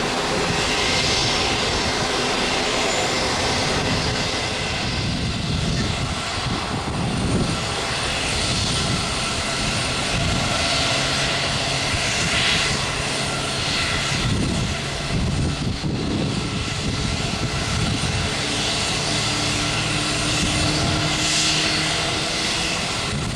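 Airliner jet engines running with a steady, even noise, a few faint low tones held underneath.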